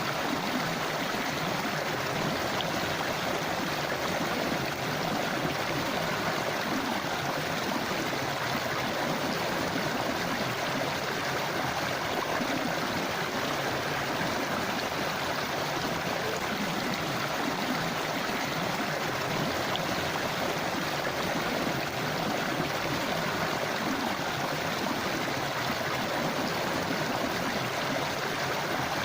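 Forest river or stream flowing, a steady rushing and gurgling of water over rocks.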